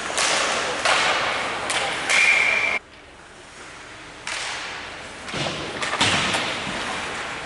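A series of sharp knocks and thuds with rushing noise between them. The sound drops away abruptly about three seconds in and picks up again a second and a half later, with more hits after that.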